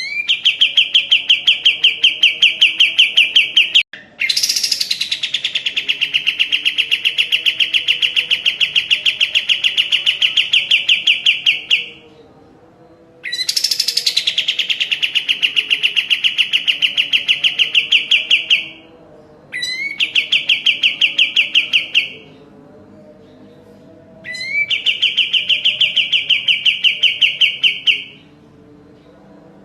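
Kapas tembak singing its rapid trilling song: five long strings of fast, evenly repeated high notes, most opening with a quick upward sweep, separated by short pauses.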